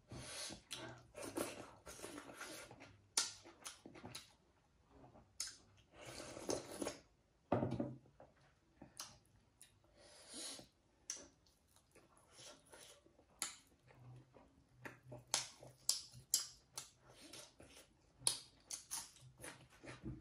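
Close-up eating sounds of a person chewing pork and rice: many short wet smacks and clicks of the mouth, with a few longer noisy spells of about a second.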